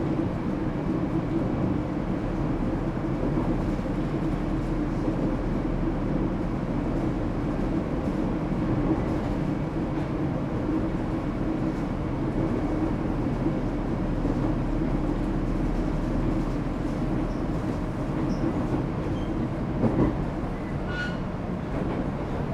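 ET127 series electric multiple unit running at a steady speed, heard from inside the car: a continuous rumble of wheels and traction equipment, with a single knock near the end.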